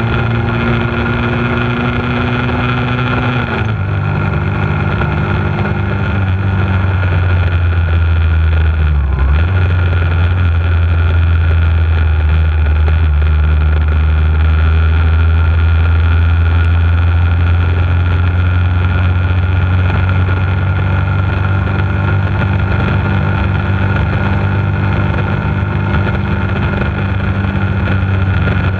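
Bullit Hunt 125 cc motorcycle engine running on the road, with wind noise on the microphone. Its pitch climbs slowly for the first few seconds, drops suddenly about four seconds in, then holds fairly steady.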